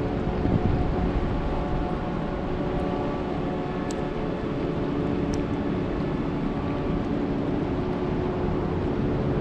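Steady roar of rushing river water and a waterfall, dense and strongest in the low end, with a faint steady hum of tones underneath.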